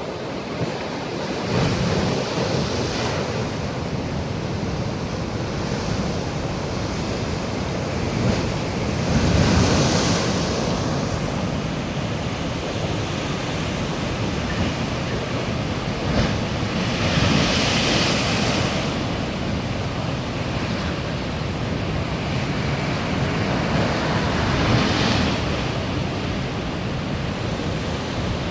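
Sea waves breaking, in four louder surges about seven to eight seconds apart over a steady wash of surf.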